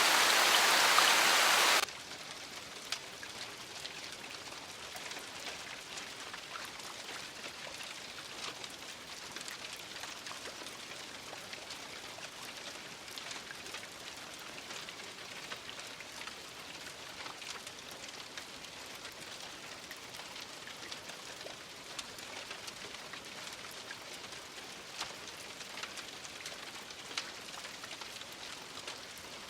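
Rain: a loud, dense rush of rain cuts off suddenly about two seconds in, leaving lighter, steady rain with many distinct drops pattering.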